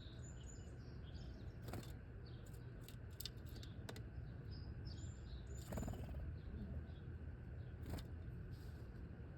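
Small songbirds chirping: many short, high call notes and quick falling chips, with several sharp clicks scattered among them over a steady low background rumble.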